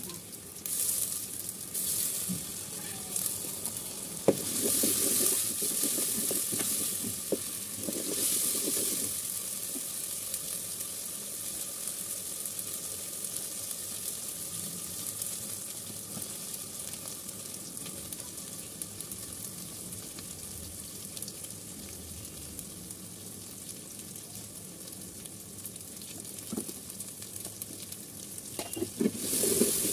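Chopped onions and paste frying in oil in a metal pot: a steady sizzle, louder during the first several seconds and again just before the end.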